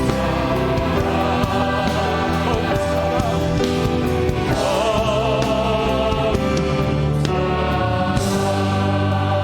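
Contemporary worship band music: keyboards, bass and drums playing under sustained choir-like singing voices.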